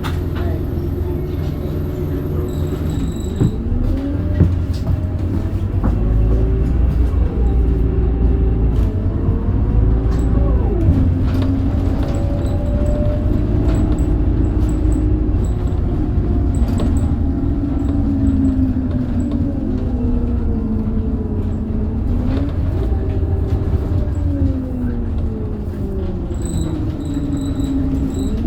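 Scania DC9 five-cylinder diesel and ZF Ecomat automatic gearbox of a Scania K270UB bus running, with a strong low rumble. The engine and transmission whine rises and falls several times as the bus speeds up through the gears, holds speed and slows again.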